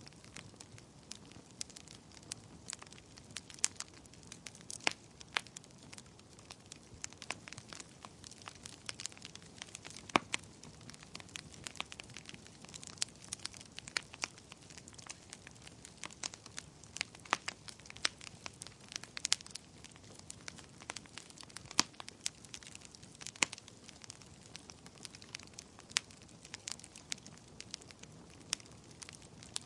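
Bonfire burning with frequent sharp crackles and pops at irregular intervals, several a second, over a soft low rush of flame.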